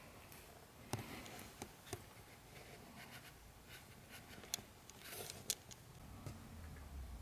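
Faint handling of an old newspaper: paper rustling, with scattered small clicks and taps, and a brief louder rustle about five seconds in.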